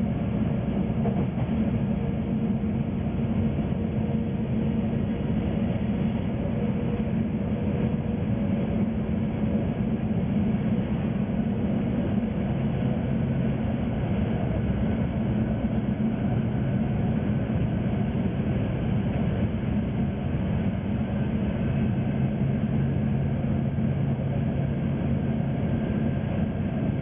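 Inside a moving diesel train: steady running noise of wheels on the rails with a low engine drone. A deeper engine tone comes in about halfway through and again near the end.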